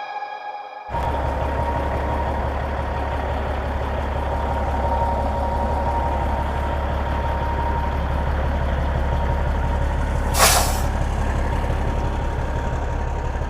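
Diesel semi truck engine running steadily at idle, with a short hiss of released air about ten seconds in.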